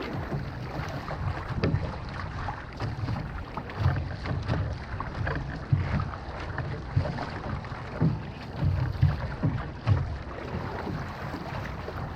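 Wind buffeting the microphone in uneven low gusts, over the water noise of an outrigger canoe being paddled.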